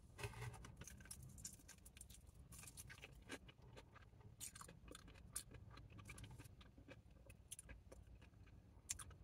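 Faint chewing and mouth sounds: a person chewing a chicken wing in sticky sauce, with many small irregular wet clicks.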